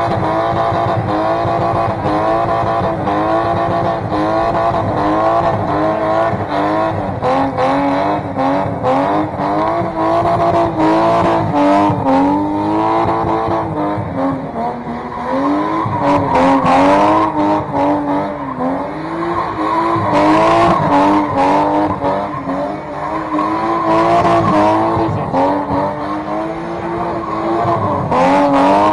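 Car engine held at high revs, its pitch wavering up and down over and over, with tyres squealing.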